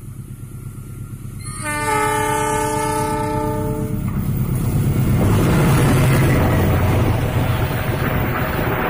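A diesel locomotive hauling a passenger train comes closer, its engine rumble growing. About a second and a half in, it sounds one long multi-note horn blast lasting over two seconds. The locomotive and coaches then pass close by, wheels running on the rails.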